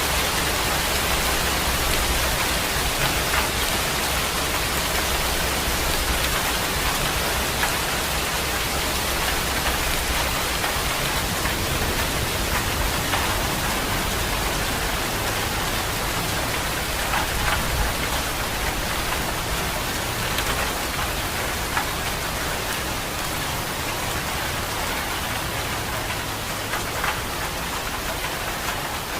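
Steady rain falling, an even hiss with a few sharper drop splashes now and then.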